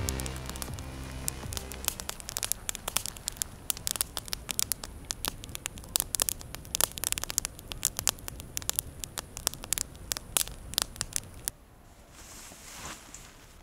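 Campfire crackling and popping with irregular sharp snaps over a low hiss, fading out under the tail of background music at the start and stopping suddenly about a second and a half before the end, where only a faint hiss remains.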